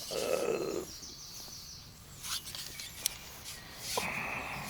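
Wild birds singing and chirping in the background. A short rustle at the start is the loudest part.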